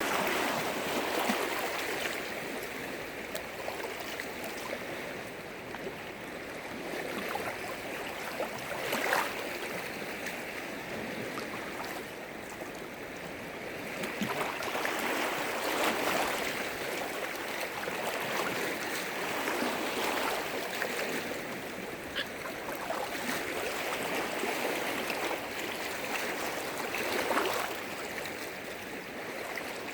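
Freshwater lake waves washing and splashing against the shore: a continuous rush of water with a few louder splashes, about a third of the way in, halfway and near the end.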